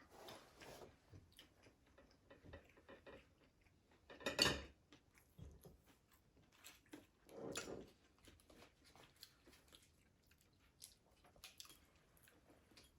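Close-up chewing and crunching of crispy fried food, soft and faint, with a louder crunching bite about four seconds in and another smaller one about seven and a half seconds in.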